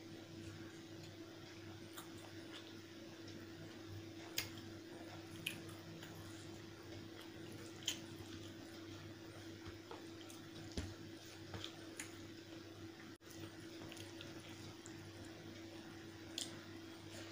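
Close-miked eating of chicken curry and rice: wet chewing and squishing, with scattered sharp, wet mouth clicks every few seconds.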